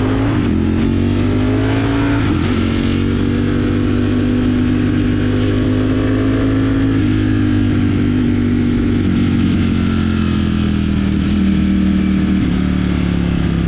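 Ducati motorcycle engine running steadily under way, its pitch climbing slowly for several seconds and then easing back down.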